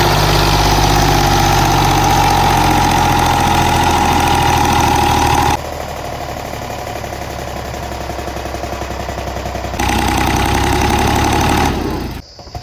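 Diesel tractor engine running hard, a steady loud engine sound with a high whine on top. It cuts abruptly to a quieter engine sound about five and a half seconds in, jumps back up near ten seconds, and drops away near the end, as at edits between shots.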